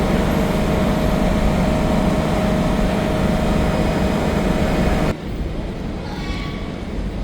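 SMRT C151B metro train running, heard from inside the carriage: a steady loud rumble and rush of wheels on rail with a faint held tone. About five seconds in the sound drops suddenly to a quieter, duller running noise with a faint rising whine.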